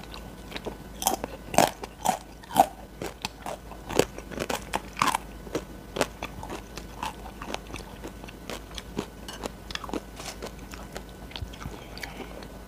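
Close-miked mouth sounds of biting and chewing grilled beef large intestine (daechang), a tough, very chewy and fat-filled cut that will not tear off easily. Many short clicks, the loudest in the first five seconds, then fewer and softer.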